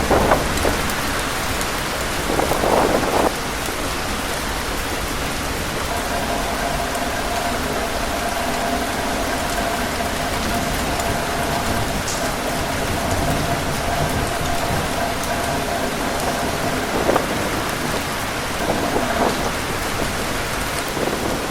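Heavy rain pouring steadily, with a few brief louder gusty swells. A faint steady whistle-like tone runs through the middle of it.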